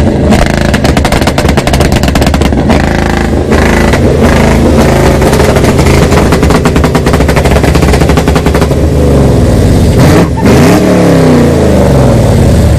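Car engine being revved hard, its exhaust loud with rapid crackles and pops. About ten seconds in there is a brief break, then the revs fall and climb again.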